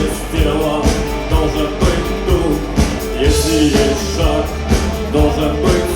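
A rock band playing live: a steady drum beat under bass and pitched melodic lines, in a passage with no sung words.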